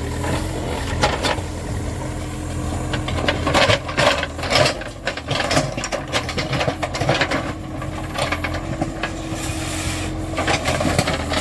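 Terex TLB 844S backhoe loader's diesel engine running steadily, with bouts of irregular scraping and rattling from the machine's digging work, the busiest stretch starting about three seconds in and another near the end.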